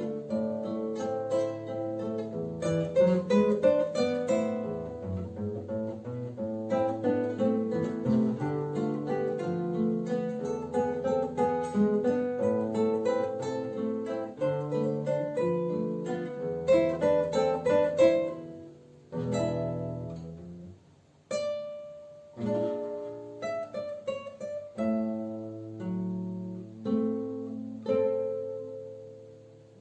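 Duet of two acoustic guitars playing plucked notes in a busy, flowing passage. After about 18 seconds the playing thins into single struck chords with short pauses between them. The final chord rings and fades away, ending the piece.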